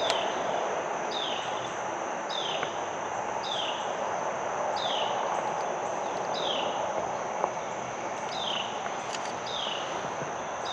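A bird repeating a short downslurred call about once a second over a steady high insect drone and a constant background rush of woodland ambience.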